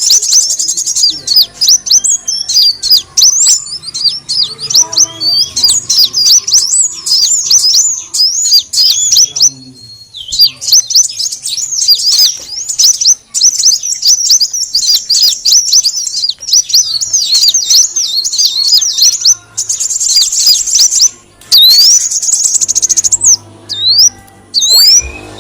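Kolibri wulung sunbird calling in a rapid, continuous stream of high-pitched chirps and squeaky twitters, with two short buzzy trills in the second half; a lure call, tagged as the female calling the male.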